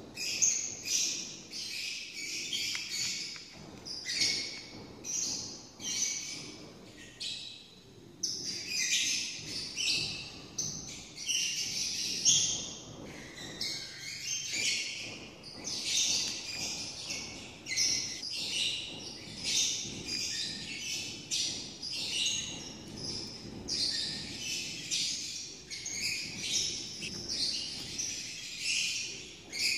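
Birds chirping and singing, a steady run of many short high calls.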